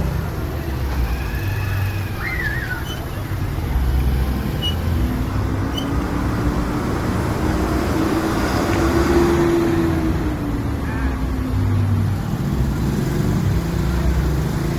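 Bus engine running with a steady low rumble, and a whine that climbs for several seconds, peaks about midway, then falls away again.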